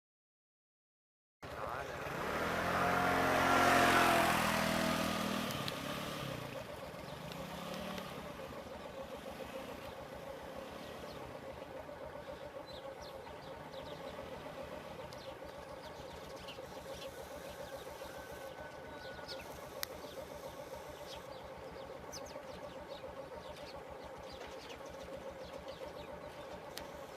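A motor vehicle passes close by: its engine sound swells to a peak about four seconds in and fades away by about seven seconds. A steady drone carries on after it, with faint high chirps now and then.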